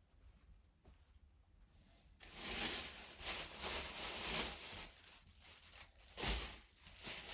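Rustling and scraping handling noise that starts suddenly a couple of seconds in, followed by a heavy thump and a lighter knock near the end.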